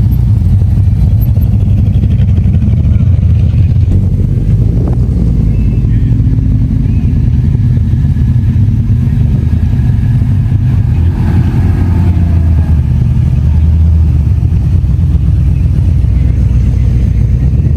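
Classic car engines running as cars drive out, a deep steady rumble.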